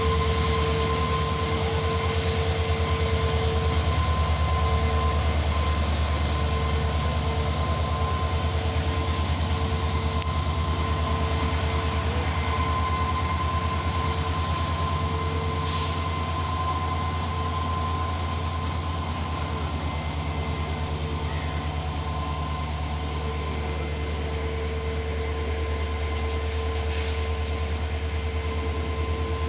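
Train running, a steady heavy low rumble with a steady machine hum over it. Two brief faint clicks come through, about halfway through and near the end.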